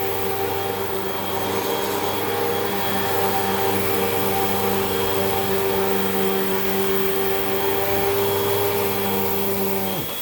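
Hoover WindTunnel 2 Rewind upright vacuum cleaner running steadily on carpet: an even motor hum with a high whine over a rush of air. Just before the end its lower hum cuts out.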